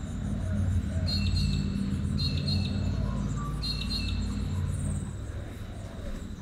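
Birds chirping, the same short chirping phrase coming three times, over a low steady drone.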